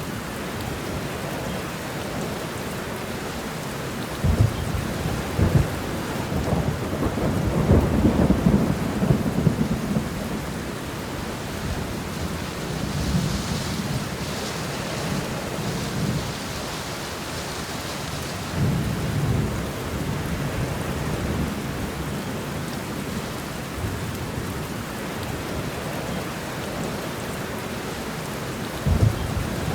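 Steady rain shower falling, with several low rumbles swelling over it: a longer one about a quarter of the way in and a short pair near the end.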